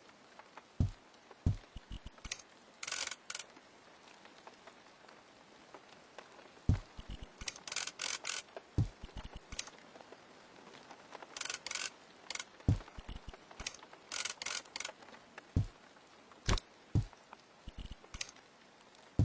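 Handwork sounds: scattered light knocks and taps, with a few short scraping or rustling strokes in between.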